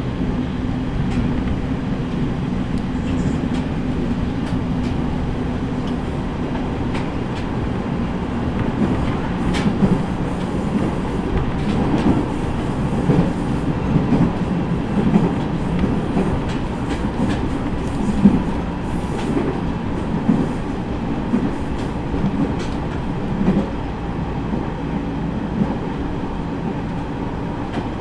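Running noise inside a JR East E501-series electric train at speed: a steady traction-motor hum and rumble, with wheels clicking over rail joints.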